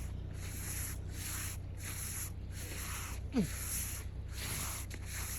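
Snow brush sweeping snow off a car in quick, even strokes, about two a second. A short falling squeak cuts in about three seconds in.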